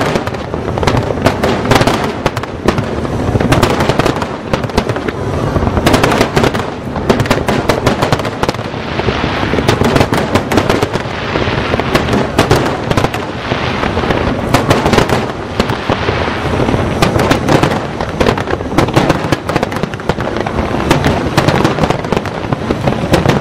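Fireworks display: a dense, continuous barrage of aerial shells bursting, the bangs and crackles coming many times a second over a steady rumble.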